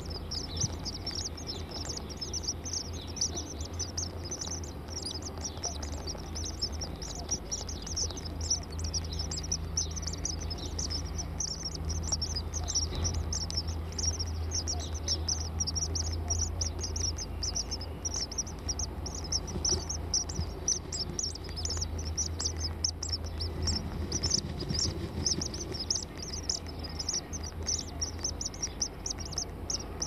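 Rapid, continuous high-pitched bird chirping, several short chirps a second, over a low steady hum.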